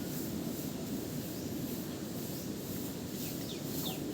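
Outdoor ambience: a high, evenly pulsing insect-like buzz about two or three times a second over a steady low rumble, with a few short falling bird chirps near the end.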